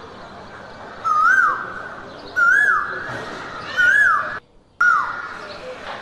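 A bird repeats a short whistled call four times, about every second and a half; each call rises and then drops away, over a steady hiss of forest background. The sound cuts out for about half a second midway.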